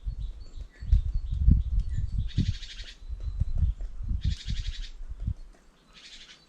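Wild bird calls at a feeder: three short, rapid trills, about a second and a half apart, over irregular low thumps and rumble.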